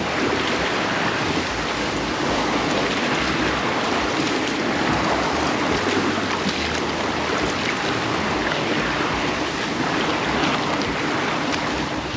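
A sailboat under sail: steady rush of water along the hull, with wind buffeting the microphone.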